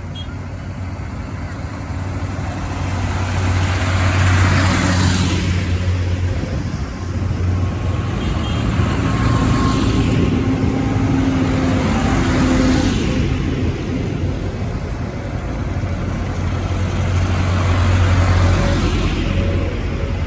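Tractors driving past one after another, engines running with a steady low drone; the sound swells and fades about four times as each passes.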